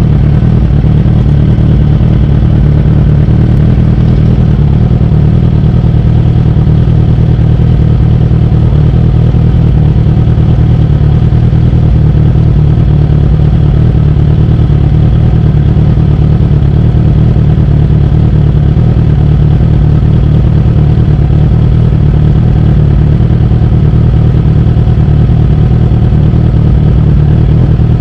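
2008 Suzuki GSX-R1000 (K8) inline-four engine idling steadily and loudly, heard from a camera mounted on its handlebars.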